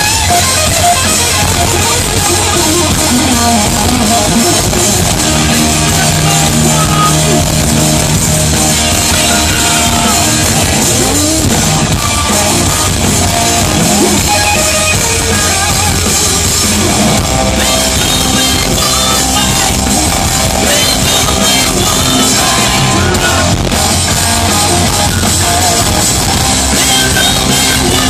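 Live rock band playing loudly at a sound check, with electric guitar over a drum kit and a steady bass.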